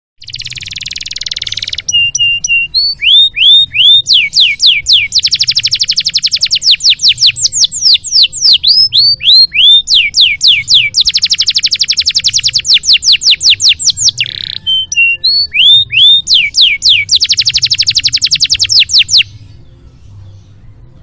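Domestic canary singing a long, loud song. It opens with a harsh rasping note, then runs through fast trills and series of downward-sliding whistles, over a faint low hum. The song stops about two seconds before the end.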